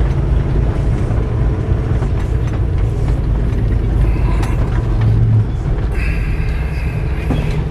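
Semi-truck diesel engine running, heard from inside the cab as a steady low rumble while the truck is driven off the highway. A steady high-pitched tone sounds for about a second and a half near the end.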